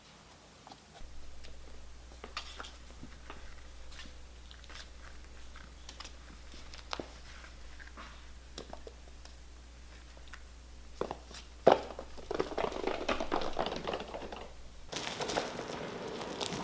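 Kittens playing: scattered light paw patters and small taps, with one sharp knock about twelve seconds in and denser crinkly rustling toward the end, over a faint low hum.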